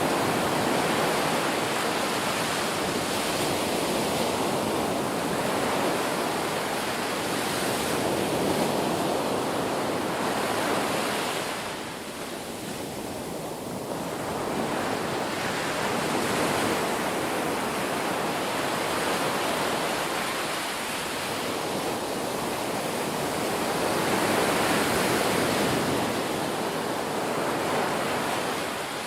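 Ocean surf: waves breaking and washing ashore in a continuous rush that swells and eases every several seconds, with a short lull about twelve seconds in.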